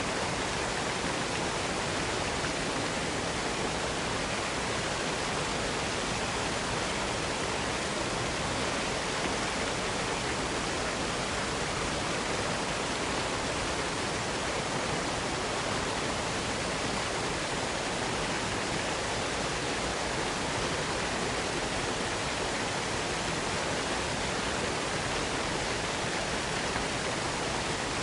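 Waterfall falling into a small wooded box canyon: a steady, unbroken rush of water with no other sound.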